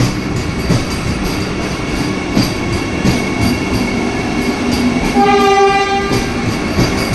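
Vande Bharat Express electric multiple-unit train rolling slowly past along the platform, a steady rumble with wheel clicks over the rail joints and a faint high steady whine. About five seconds in, a train horn sounds for about a second.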